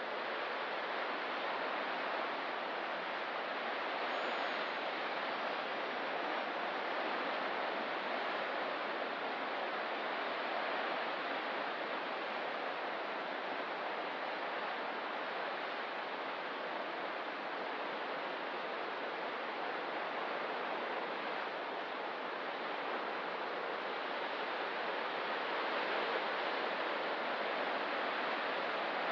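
Ocean surf washing steadily against the coast, a continuous rushing hiss that swells and eases gently.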